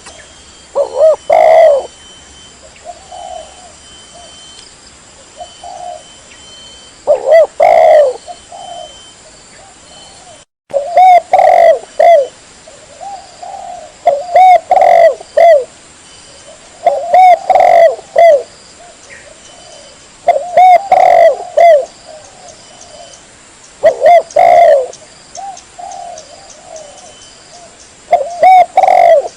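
Spotted dove (tekukur) cooing loudly and clearly, repeating its multi-note coo phrase about every three seconds, with softer coos between the phrases. This is a lure call for attracting wild doves. There is a brief dropout a little over a third of the way in.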